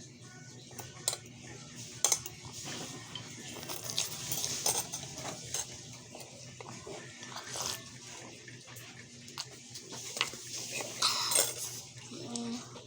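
A utensil clinking and scraping against a bowl of instant noodles while eating, with sharp clinks about one and two seconds in.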